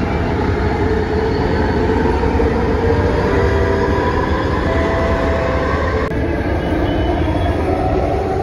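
Bombardier light-rail train running, heard from inside the car: a steady rumble of wheels on the track, with a few faint steady whining tones in the middle. The sound changes abruptly about six seconds in, as the footage cuts to another stretch of the ride.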